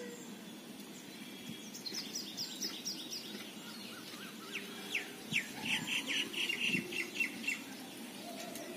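A bird chirping in rapid runs of short, falling high notes, starting about two seconds in and stopping near the end, over faint steady background noise.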